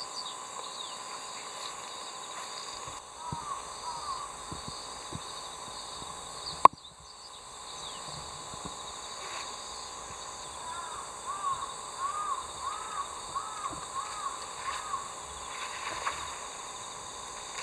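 Steady outdoor insect chorus, with runs of short, rising-and-falling calls from an animal, about two a second for several seconds in the latter half. A single sharp click cuts in a little before halfway.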